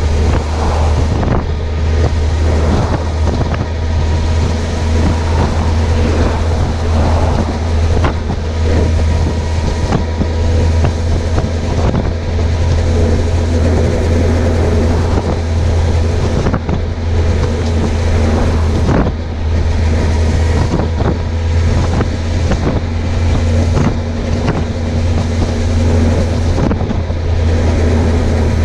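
Suzuki GSX750F's inline-four engine running steadily at cruising speed, with wind rushing over the chest-mounted camera's microphone.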